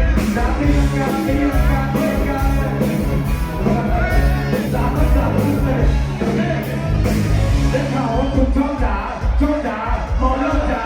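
Live bar band playing a loud rock song with a singer over a steady drum beat.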